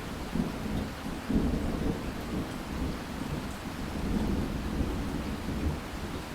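Thunder rumbling over steady rain: the rumble sets in right at the start and rolls on throughout, loudest a little over a second in.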